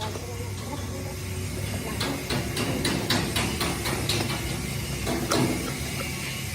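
Workshop sounds: a steady machine hum with a run of sharp metal taps or knocks, about three a second, starting about two seconds in and stopping shortly before the end.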